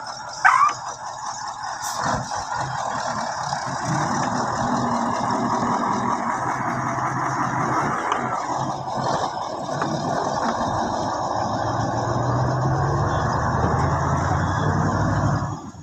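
Heavy truck's diesel engine running as the truck manoeuvres, with a brief sharp rising squeal about half a second in. The engine note grows stronger near the end, then cuts off suddenly.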